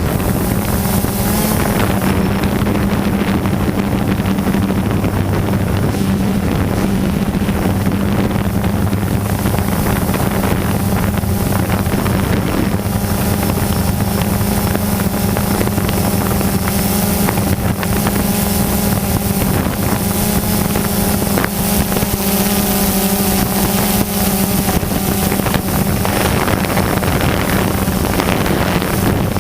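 DJI Phantom 2 quadcopter's motors and propellers running with a steady, even hum, picked up by the GoPro carried on the drone, with some wind noise on its microphone.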